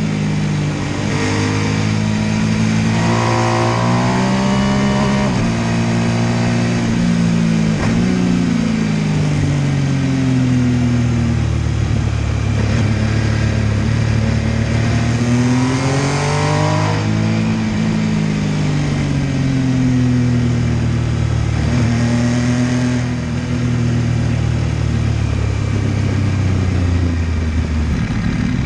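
MV Agusta F3 800's three-cylinder engine pulling hard and easing off, its pitch climbing and dropping several times as the rider accelerates and changes gear, over steady wind noise.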